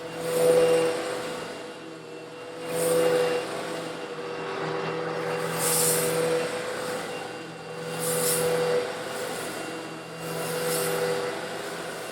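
Eureka vacuum cleaner running with a steady motor hum while sucking up coarse stone granules a little larger than sand. The granules hiss and rattle through the nozzle in swells that come five times, about every two and a half seconds.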